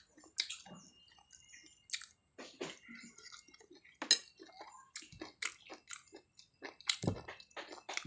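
A person chewing duck satay close to the microphone: irregular wet smacks and clicks of mouth and teeth, one louder smack near the end.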